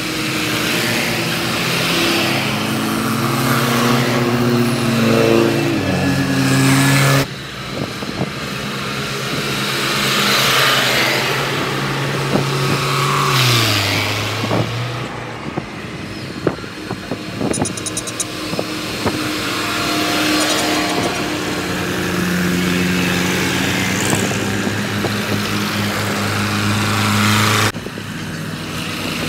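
Several tractor engines running as tractors drive past one after another, the engine note shifting and dropping in pitch as each goes by. The sound cuts abruptly twice.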